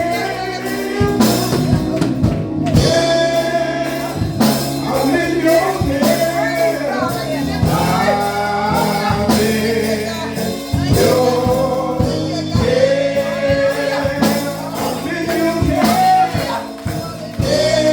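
Live gospel music: a singer over organ or keyboard, bass and drums.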